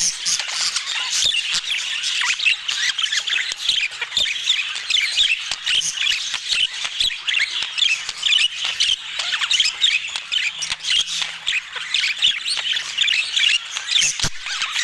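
A flock of budgerigars chattering and warbling: many overlapping short chirps and squawks without a break. A single soft knock is heard near the end.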